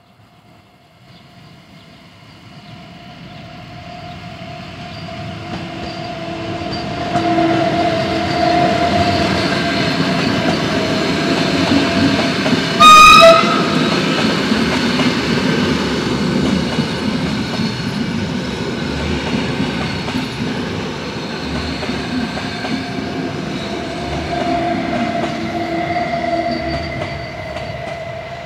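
A Flåm Railway train approaching and passing through a level crossing, growing louder over the first several seconds and then running past steadily. A short horn blast sounds about halfway through and is the loudest moment.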